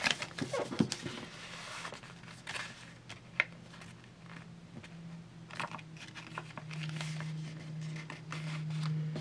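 Sheet of paper being folded and creased by hand: intermittent crinkling, sliding rustles and small ticks as the paper is pressed flat. A steady low hum runs underneath, a little louder near the end.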